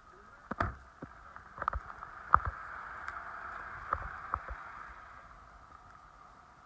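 2017 Toyota RAV4 engine running, a steady hum with scattered sharp clicks and knocks, the loudest about two and a half seconds in; the hum eases off after about five seconds.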